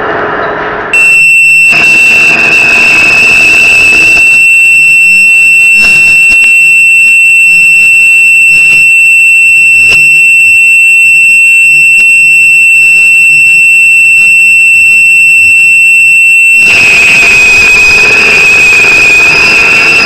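Metal lathe cutting with a loud, piercing high-pitched squeal from the cutting tool. The squeal starts suddenly about a second in, holds one steady pitch, and near the end turns wavering and rougher.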